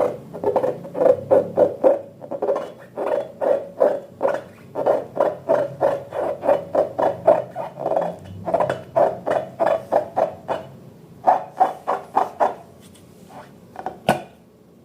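Slime being squeezed and kneaded by hand: a quick run of wet squelching clicks, about four a second, with short breaks. It thins out near the end, and a single sharp click follows.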